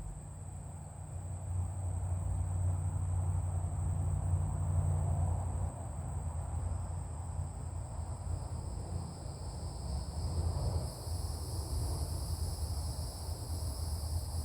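Insects chirring outdoors in steady high-pitched tones, with a second, lower-pitched chorus joining about halfway through, over a low steady rumble.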